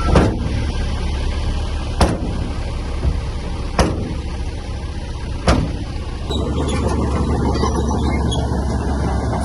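Heavy diesel earthmoving machinery running with a steady low drone, broken by four sharp knocks about two seconds apart. About six seconds in the sound turns rougher and noisier.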